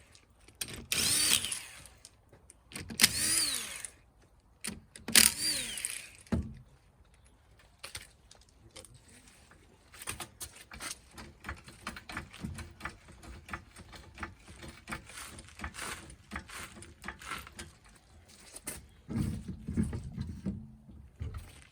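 Handheld power tool spinning up and winding down in three short bursts of about a second each, then a run of lighter clicks and knocks.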